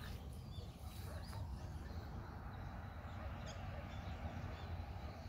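Small birds chirping in short, scattered calls, with a brief run of calls about three and a half seconds in, over a steady low rumble.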